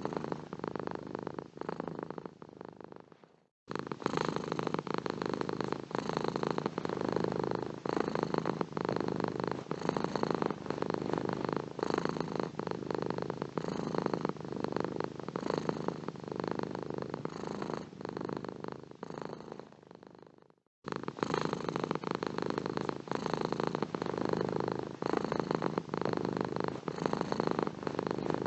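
Domestic cat purring close to the microphone, a steady pulsing rumble. Twice, about three and a half seconds in and about twenty seconds in, the purring fades away and then starts again abruptly.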